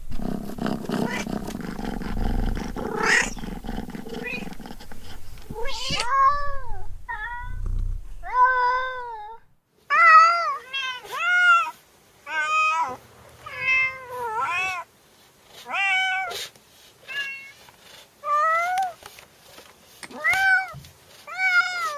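Domestic cat meowing over and over: about twenty short meows, each rising then falling in pitch, coming one after another from about six seconds in. Before that is a noisy stretch with a low rumble.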